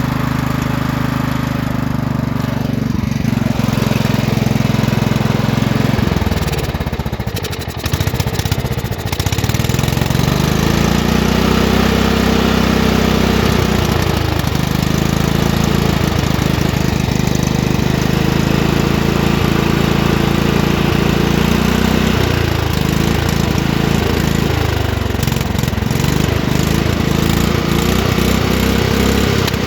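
Engine of a home-built rat truck running and being revved up and down over and over, its pitch rising and falling, with a brief dip in level about seven seconds in.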